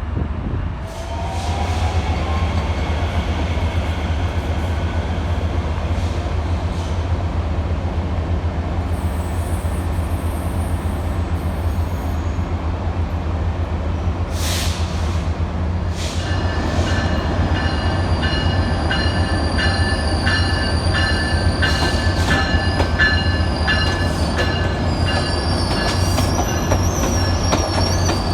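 Passenger train rolling slowly on the station tracks with a steady low rumble. From about halfway through, its wheels squeal against the rails in several steady high-pitched tones with short crackles.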